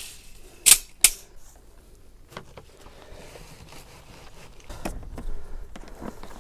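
Two sharp clicks about a third of a second apart, followed by scattered fainter knocks and rustling handling noise.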